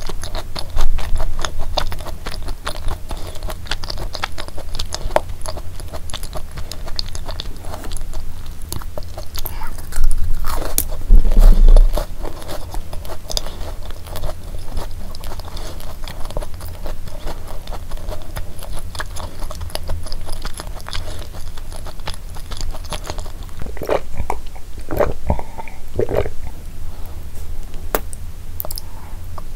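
Close-miked chewing of a thick cookie: steady crunchy, moist mouth sounds with many small clicks. A few loud low thumps come about ten to twelve seconds in.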